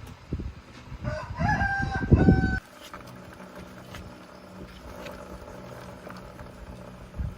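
A rooster crowing once, a call of a few held notes ending abruptly, with low knocks under it.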